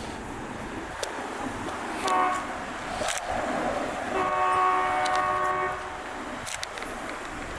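Train horn sounding a short blast about two seconds in, then a long blast of about a second and a half, over the rumble of a passing train with scattered sharp clicks.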